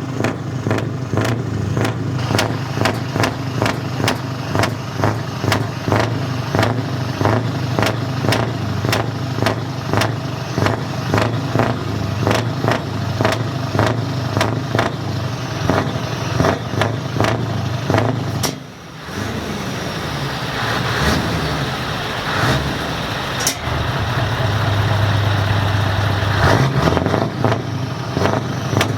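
Scania V8 truck engine running loud through its exhaust, with a dense run of sharp cracks over a steady low note. After a sudden break about two-thirds of the way in, an engine revs up and down, then holds at a steady speed.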